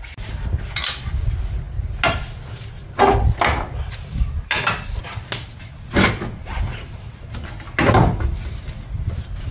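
Metal hand tools and suspension parts clinking, clattering and scraping in irregular bursts as a 17 mm bolt is undone and the lower control arm is worked free. The loudest clanks come about three, six and eight seconds in.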